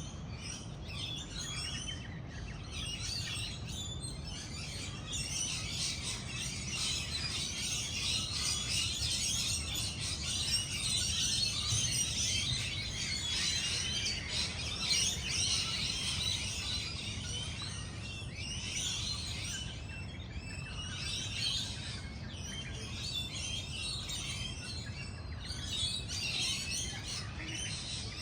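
Morning chorus of many birds chirping at once, a dense overlapping chatter that eases slightly for a few seconds past the middle, over a low steady background rumble.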